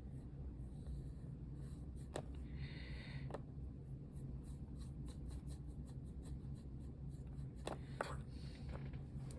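Light scratching strokes of a brush or pencil working on a craft piece, with a few small clicks of tools on the table, over a steady low hum.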